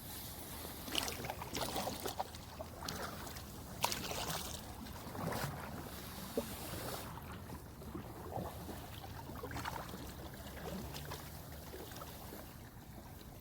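Water splashing and sloshing around a kayak, with scattered irregular knocks on the hull that are busiest in the first seven seconds, and light wind on the microphone.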